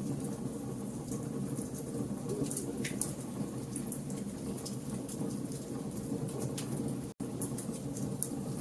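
Campfire logs burning: a steady low rush with frequent sharp crackles and pops. The sound cuts out completely for an instant about seven seconds in.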